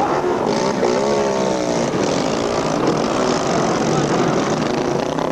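Several motorcycle engines running together, one revving up and down about a second in, over a steady engine drone.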